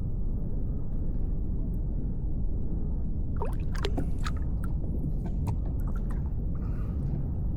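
Water sloshing and lapping against a kayak hull over a steady low rumble, with a cluster of small splashes and knocks about three to four seconds in.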